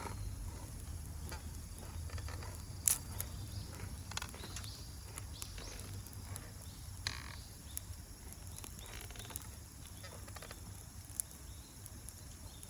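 Wood fire crackling, with scattered sharp pops over a low steady rumble; the loudest pop comes about three seconds in.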